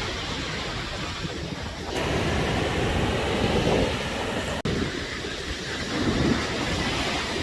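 Steady rushing of wind and breaking surf, with wind buffeting the microphone. It gets a little louder about two seconds in, and the sound drops out for an instant about halfway through.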